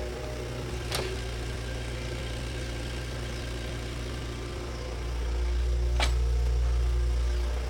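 Bulldozer's diesel engine running steadily, growing louder about five seconds in, with two sharp metallic knocks, one about a second in and one about six seconds in.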